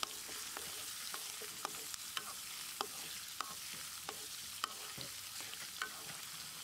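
Chopped ginger and garlic sizzling in hot coconut oil in a metal wok, stirred with a wooden spatula: a steady frying hiss with scattered light clicks.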